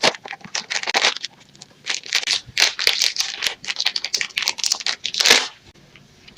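Plastic snack wrapper of an Oreo soft cake crinkling as it is handled and torn open: a quick, uneven run of crackles, loudest in a burst a little past five seconds in.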